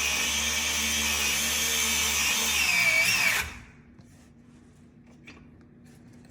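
A handheld power tool running steadily with a high whine. It wavers in pitch and then stops suddenly about three and a half seconds in, leaving only faint knocks.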